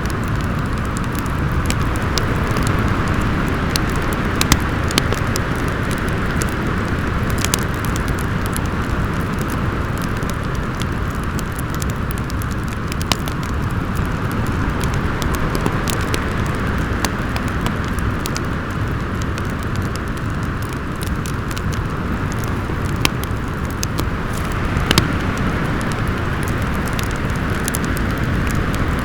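Storm wind howling steadily over a low rumble, its whistling tone swelling and fading every few seconds, with a wood fire crackling in scattered sharp pops.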